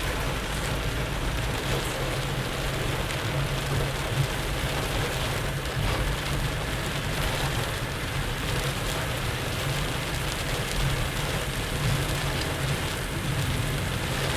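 Heavy rain falling on a moving car, heard from inside the cabin, with a steady low rumble of the car and its tyres on the wet road underneath.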